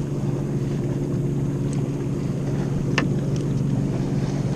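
Motorboat engine running at a steady pitch, a low drone. One short sharp click about three seconds in.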